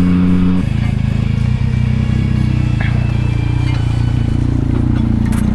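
A motorcycle engine running steadily at a low, even speed.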